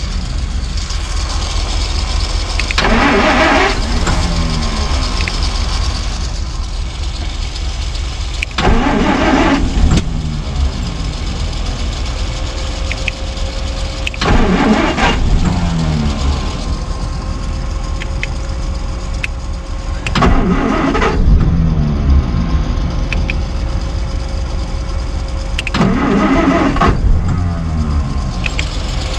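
The 1949 Plymouth's flathead six being cranked in five short attempts about six seconds apart, each burst falling in pitch as it stops. A steady rumble continues in between. The long-parked engine is being coaxed to fire but does not yet keep running.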